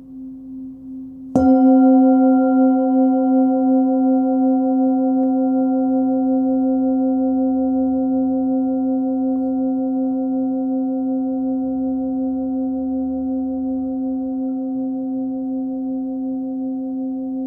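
A Nepalese singing bowl, 16.3 cm across and tuned to about 262 Hz (C), is already ringing faintly when it is struck once about a second and a half in. It then rings on with a steady low note and several higher overtones, fading slowly with a gentle wavering pulse.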